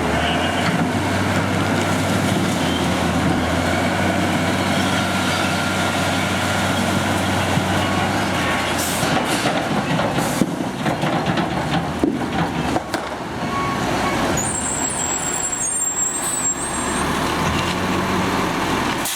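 Recycle truck engine running steadily, with scattered knocks and clatter around the middle and a brief high squeal a few seconds before the end.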